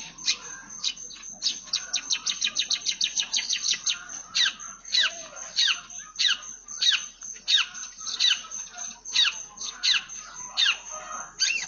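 Long-tailed shrike (cendet) singing a song full of Eurasian tree sparrow imitations. It opens with a fast run of short descending chirps, about eight a second, then settles into sharp, downward-slurred chirps about one and a half a second.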